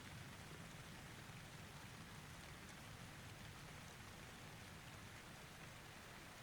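Faint, steady rain: an even hiss of rainfall with no thunder.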